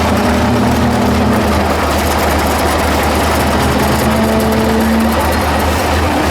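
Engine of a heavy 6x6 off-road trial truck running steadily, with a deep pulsing low end.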